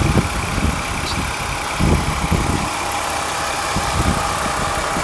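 Ford 3.0 L Duratec V6 idling steadily with the hood open, with a low thump about two seconds in.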